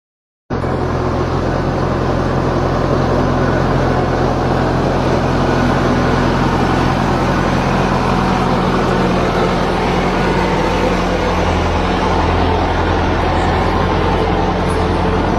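Tractor engine running steadily under way, a loud even drone with a deep hum, cutting in abruptly about half a second in.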